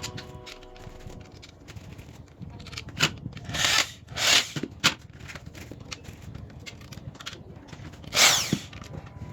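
Workshop tool work in a saw-making forge: about five short rasping strokes over a low steady background, four in a cluster near the middle and one near the end.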